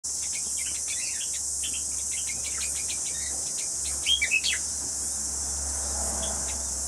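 A steady, high-pitched chorus of insects, with small birds chirping and twittering over it; the chirps are busiest in the first four seconds, with a few louder calls about four seconds in, then thin out.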